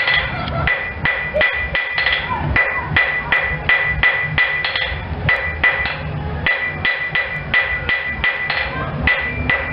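Blacksmith's hammer striking hot iron on an anvil in a steady rhythm of about three blows a second, each blow with a ringing anvil tone, broken by brief pauses: a nail being forged by hand.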